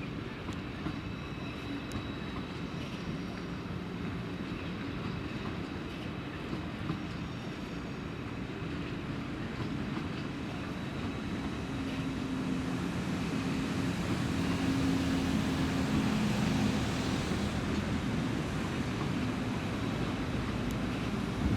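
A train moving slowly through the station, its running hum growing louder through the middle and easing slightly near the end.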